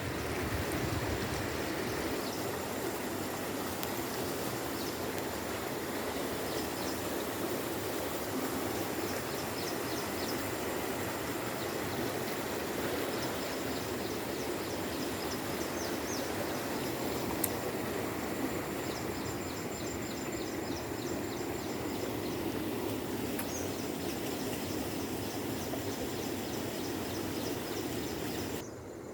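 Steady outdoor background noise with faint short high chirps scattered through it; it drops off suddenly near the end.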